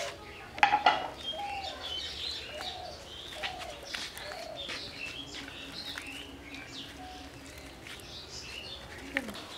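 Birds chirping and calling throughout, short high chirps mixed with repeated lower call notes. A few sharp clicks come about a second in.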